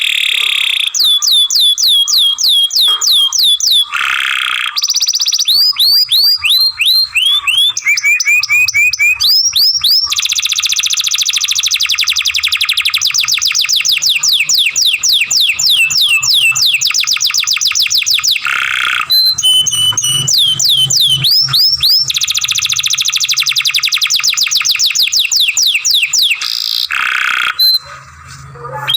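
Domestic canary singing a long, unbroken song. It is made of fast trills of repeated downward-sweeping notes that switch to a new phrase every few seconds, with a few short buzzy rolls between them.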